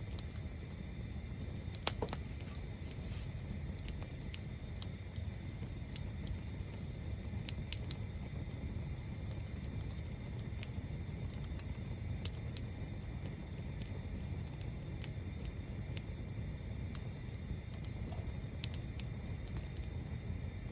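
Wood bonfire burning: scattered sharp crackles and pops, two of them louder, over a steady low rumble.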